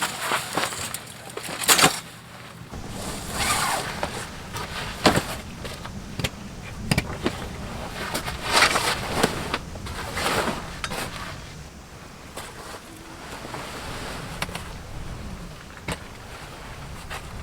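Irregular knocks, clicks and rustling swishes of camping gear being handled during camp setup, busiest in the first ten seconds and calmer after.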